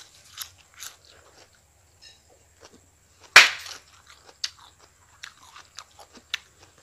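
Crisp chewing of a mouthful of raw salad vegetables such as lettuce and cucumber: a run of short, wet crunches, with one loud, longer crunch about three and a half seconds in.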